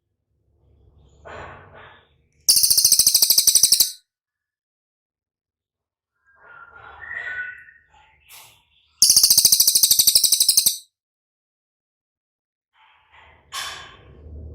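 Cililin bird singing: two loud, very high, rapid trills of about a second and a half each, with softer chirping notes between them.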